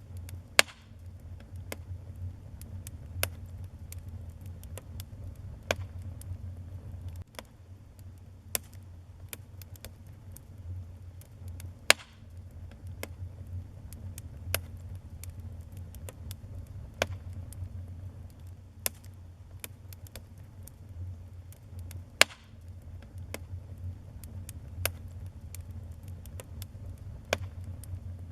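Wood fire burning in a fireplace, crackling with irregular sharp pops. A few louder snaps stand out, near the start, about twelve seconds in and about twenty-two seconds in, over a low steady rumble.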